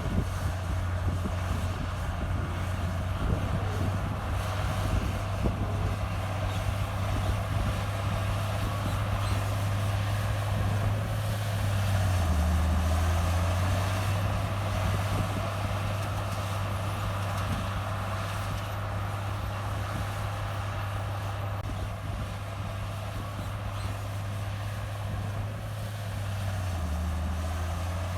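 Heavy diesel earthmoving machinery running steadily under load, its engine note dipping lower and growing louder for a couple of seconds about twelve seconds in, and dipping again near the end.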